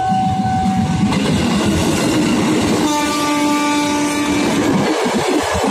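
KRL commuter electric train passing close by, its wheels rumbling and clattering over the rails. A horn sounds about three seconds in and holds steady for over a second.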